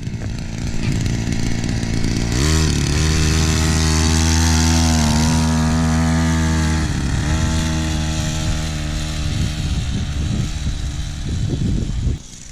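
Fit Right 50cc two-stroke mini bike engine revving up about two seconds in, held at high revs for several seconds, then backing off to a lower, uneven throttle before cutting off sharply near the end.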